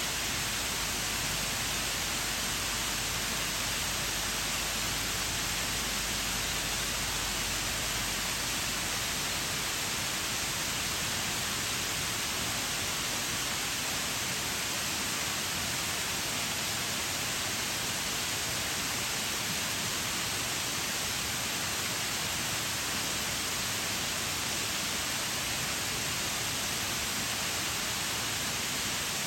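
Shiraito Falls' water pouring down in a steady, unbroken rush, more hiss than rumble.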